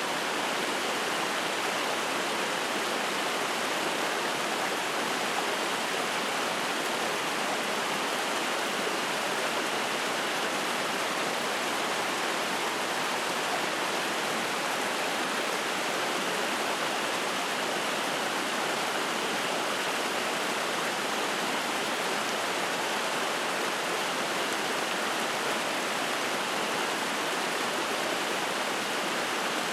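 Spring-fed mountain stream rushing and splashing over rocks: a steady, even water rush.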